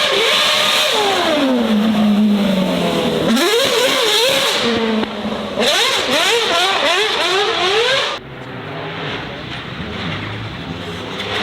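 High-performance car engine under hard throttle: its pitch falls away, then swings rapidly up and down in repeated revs. About eight seconds in, the sound cuts to a quieter, lower engine running.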